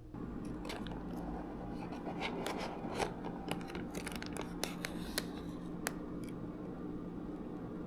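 Close handling noises: a quick run of sharp clicks, scratches and scrapes, like something being cut, torn or unpacked by hand, dying away about six seconds in, over a steady low hum.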